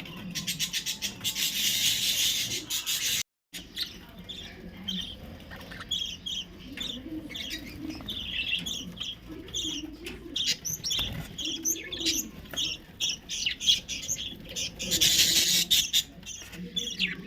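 A flock of lovebirds chirping and squawking while they feed, with two bursts of rapid, shrill chatter near the start and near the end.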